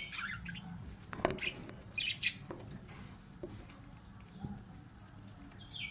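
Pet budgerigars chirping in short, scattered bursts, loudest about two seconds in, with a few sharp clicks among them.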